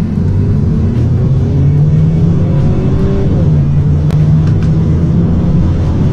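Mercedes-Benz C180 (W205) 1.6-litre turbo four-cylinder accelerating hard from a standstill on an automatic. The engine note rises, drops at an upshift about three seconds in, then climbs again.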